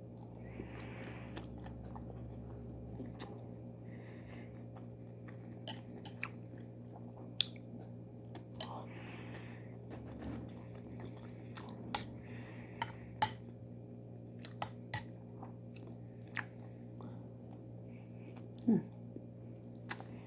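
Close-up chewing of a mouthful of rice with yogurt and cucumber, with scattered wet mouth clicks and smacks. A steady low hum runs underneath.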